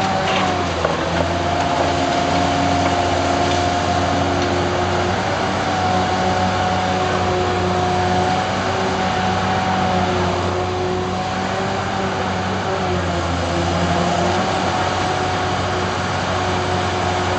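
Demolition excavator's diesel engine running steadily, with a constant high whine over the engine hum and only a few faint knocks.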